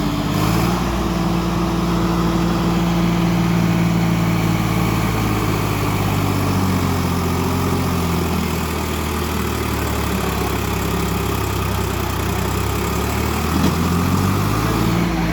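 Tractor engine running hard as a stuck tractor is driven to get free, its revs rising, holding, easing off in the middle and climbing again near the end.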